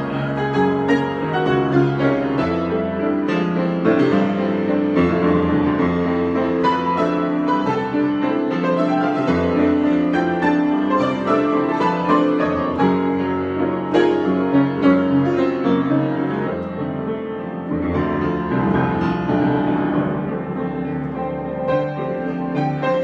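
Piano being improvised: a continuous flow of chords and melody, with notes held and overlapping.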